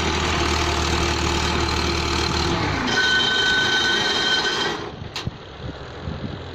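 Machinery running with a steady low hum, then a high whine that joins in about three seconds in; the noise cuts off suddenly about five seconds in, followed by a single click.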